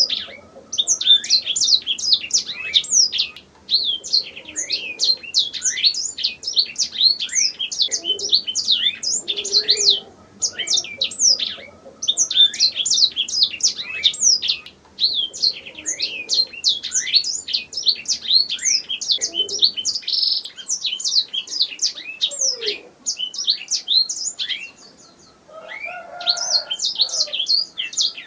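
Domestic canary singing: long, fast trills of quick falling notes, broken by short pauses every few seconds.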